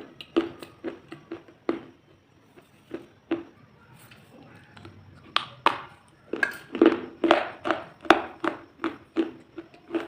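Close-miked crisp crunches of crunchy food being chewed, a few a second, with a lull of about three seconds around two seconds in before a denser run of crunches.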